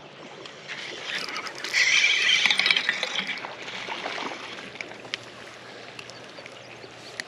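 Creek water splashing and sloshing, loudest for about a second and a half around two seconds in, over the steady rush of the stream.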